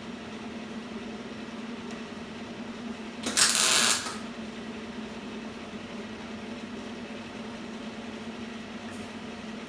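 A welder switched on, humming steadily. About three seconds in, one loud sizzling burst of under a second: a short welding tack on the sheet-metal patch panel.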